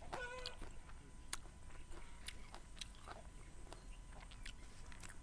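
A person chewing crisp raw vegetables with the mouth close to the microphone: a scattered run of short, sharp crunches. A brief pitched call sounds right at the start.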